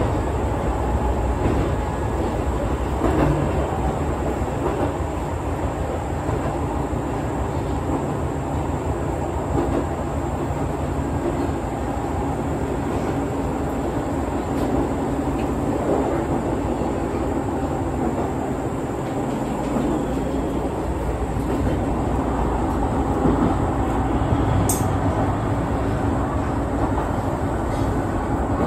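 Izuhakone Railway Daiyuzan Line electric train running between stations, heard from on board: steady wheel-on-rail and running noise with a faint motor hum.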